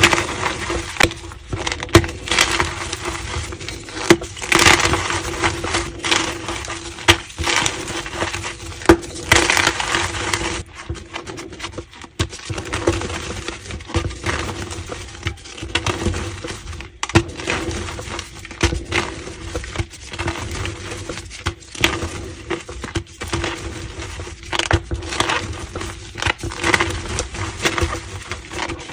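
Gym chalk being crushed: a dense run of irregular crunches and sharp cracks as the chalk breaks apart.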